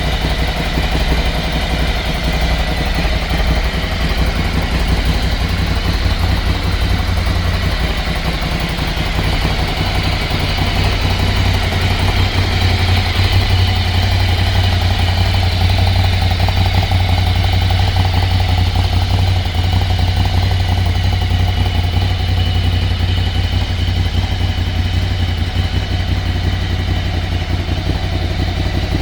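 Ducati Scrambler 800's air-cooled 803 cc L-twin engine idling steadily.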